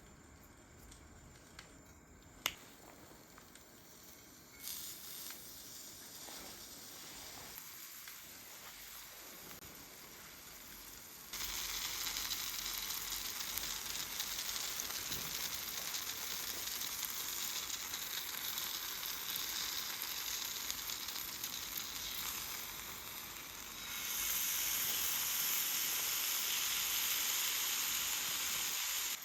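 Food sizzling on a hot cooking surface, a steady hiss that jumps suddenly louder twice, about a third of the way in and again near the end. A single sharp click comes before the sizzling builds.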